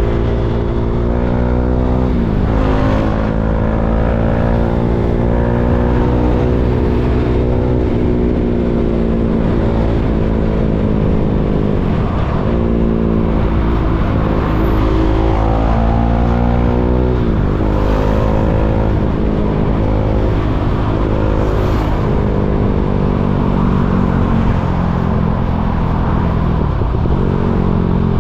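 KTM Duke 390's single-cylinder engine pulling through the gears, its pitch climbing under throttle and dropping sharply at each shift, several times over, above a steady low rumble.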